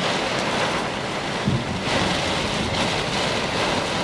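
Steady rush of rain and wind during a severe thunderstorm.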